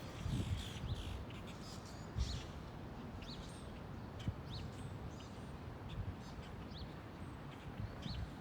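Wind buffeting the microphone in irregular low rumbles, while a small bird gives short, high, rising chirps every second or so.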